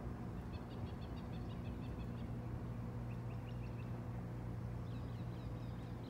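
Small songbirds chirping in quick runs of short high notes: one run starting about half a second in and lasting nearly two seconds, a shorter one about three seconds in, and more near the end. A steady low hum runs underneath.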